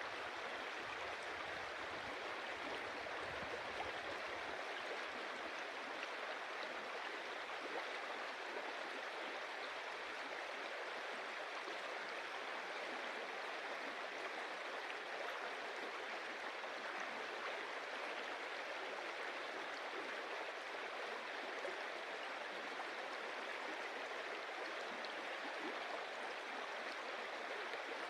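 A stream of water running and splashing over stones, a steady, even rushing.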